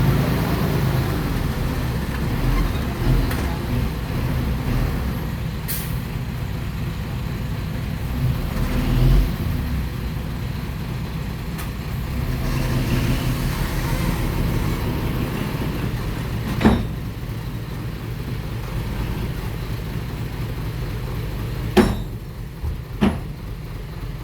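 Heavy diesel engine of construction machinery running steadily, with a few sharp metallic knocks about two-thirds of the way in and near the end.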